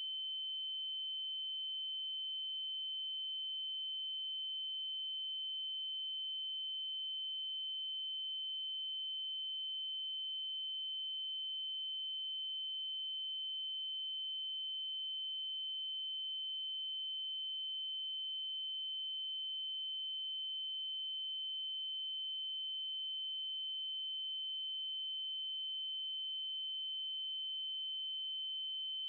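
Synthesised 3072 Hz triangle-wave tone: a single steady, high-pitched electronic tone that holds the same pitch and level throughout.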